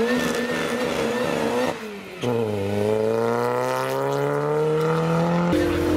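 Supercharged Mini Cooper S four-cylinder accelerating hard. The engine note climbs, dips briefly about two seconds in, then rises steadily through the gear until an upshift drops the pitch near the end.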